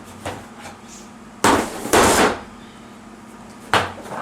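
Hard plastic shelf parts being knocked together into place: a loud pair of thumps about a second and a half in, then another near the end.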